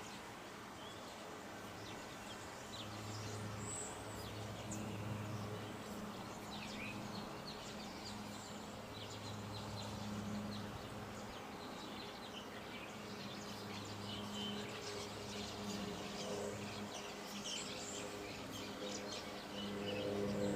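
Small birds chirping now and then in short, high calls over a low, steady hum that swells and fades.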